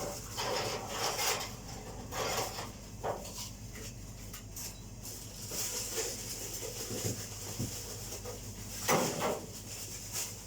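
Kitchen handling noises: a few short clatters and rustles over a low steady hum, the loudest about nine seconds in.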